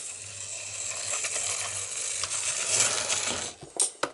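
OO gauge model steam locomotive running on its track: a steady whirr of the small motor and wheels on the rails, giving way to a few sharp clicks near the end.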